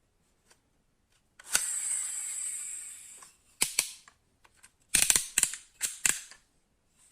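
Small die-cast model parts being handled: a sharp click, then a high whirr that fades over nearly two seconds, followed by a run of sharp clicks and clacks.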